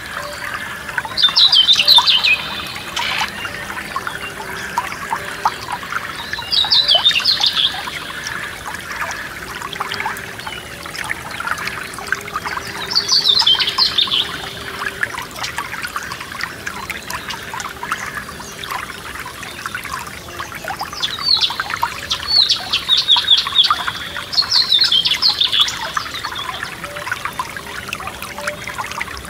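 A forest stream trickling and splashing over stones, with a songbird singing five short, fast trilled phrases spaced a few seconds apart over the water.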